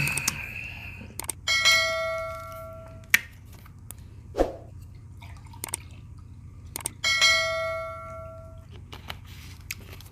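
A dish struck by an eating utensil, ringing twice, about five seconds apart, each ring dying away over a second or so, with lighter clinks and taps of cutlery between.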